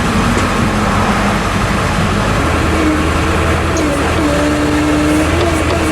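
Tractor engine running steady, its note rising and strengthening about two and a half seconds in.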